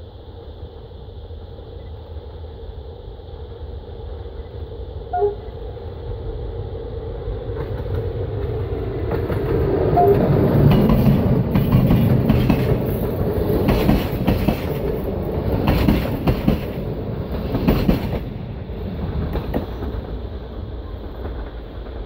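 Romanian passenger train hauled by a Class 40 (060-EA) electric locomotive approaching and passing. It grows louder to a peak about halfway through, then the coaches' wheels clack repeatedly over the rail joints as they go by, and the sound eases off near the end.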